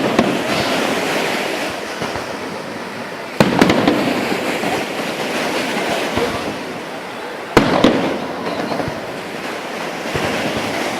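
Fireworks going off: sharp bangs at the start, about three and a half seconds in and near eight seconds, each followed by several seconds of crackling.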